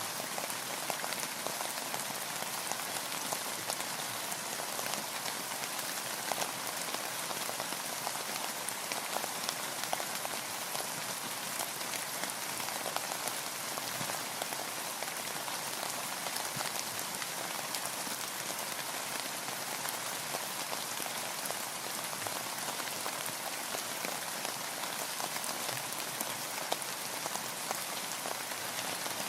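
Steady rain falling on a boat, with a dense hiss of rain and many small drop ticks on the surface close by.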